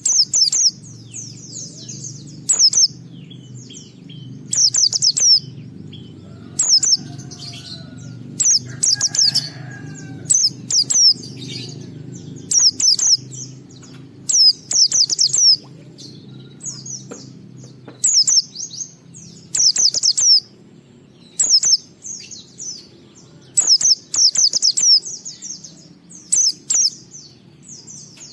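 White-eye (pleci) singing in the sustained 'ngalas' style: rapid, high twittering phrases about a second long, repeated every one to two seconds over a low steady hum.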